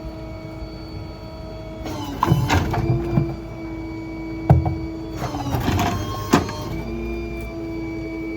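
Rear-load garbage truck's hydraulic packer running over a steady engine and pump hum, crushing debris. There are two stretches of crunching and clattering, and a sharp bang about halfway through.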